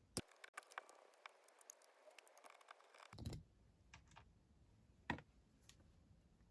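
Faint, scattered clicks and light taps of small tools and metal carburettor parts being handled during dismantling of a 50cc motorcycle carburettor, with one sharper click about five seconds in.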